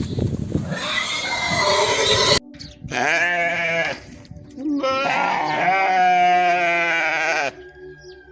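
Farm animal calling: two long, wavering calls, the first about a second long and the second nearly three seconds, after a rough, noisy stretch at the start.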